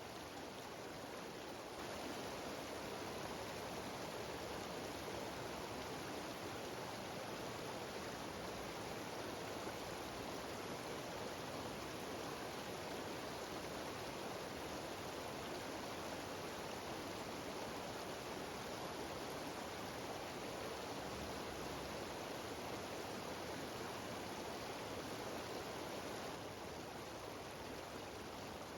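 Steady rushing of a cascading mountain stream and waterfall, an even wash of water noise that grows slightly louder about two seconds in and eases back near the end.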